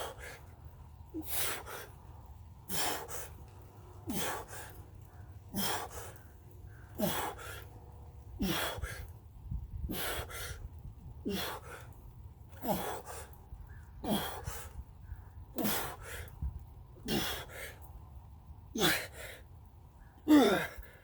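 A man breathing out hard under exercise strain, a forceful gasping exhale with a bit of voice that drops in pitch, about one every second and a half. The last one is the loudest.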